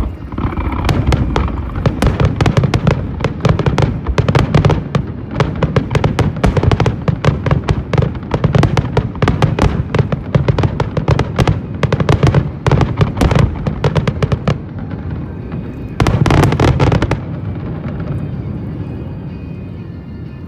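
Aerial fireworks bursting in rapid succession, several loud bangs a second, with a last dense cluster of bursts about three quarters of the way through before they die away to a fading rumble.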